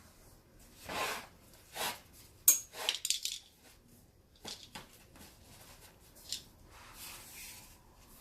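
Hand-work noises from repairing a baseball glove: scattered rustles and light taps of handling, with a sharp metallic clink about two and a half seconds in, followed by a quick run of small clicks.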